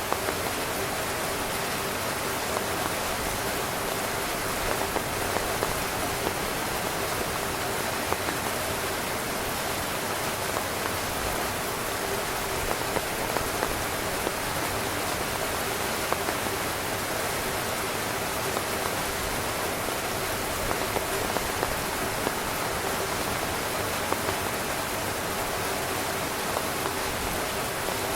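Steady heavy rain drumming on a tent, an even hiss with scattered louder individual drop hits throughout.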